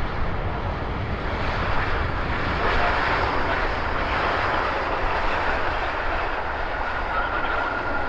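Jet engines of a Boeing 787-9 Dreamliner airliner, a steady rumble and rush of engine noise. A thin high whine comes in near the end.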